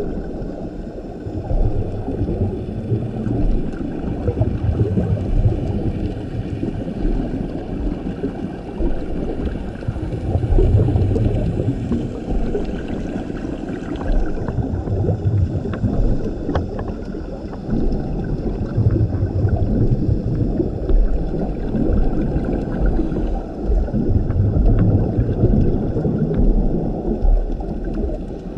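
A scuba diver's regulator breathing underwater: exhaled bubbles rumble out in surges every four seconds or so, over a steady bubbly hiss and crackle of the reef.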